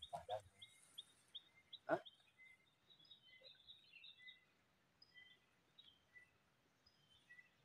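Faint forest birdsong: a run of short high notes about three a second, then scattered chirps over a near-silent background. A sharp snap sounds about two seconds in, with two small clicks just before it at the start.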